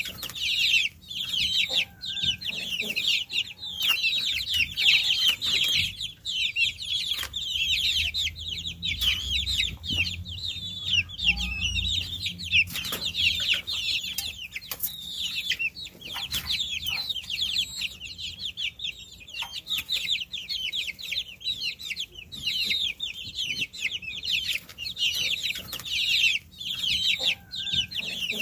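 A brood of baby chicks peeping continuously: many short, high-pitched, falling chirps overlapping one another, with a few soft clicks among them.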